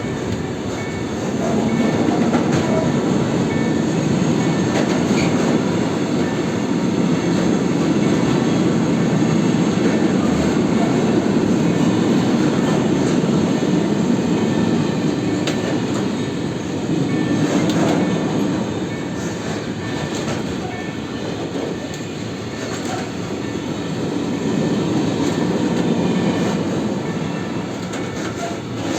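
Freight train wagons rolling past steadily: a continuous loud rumble with scattered wheel clacks over the rail joints.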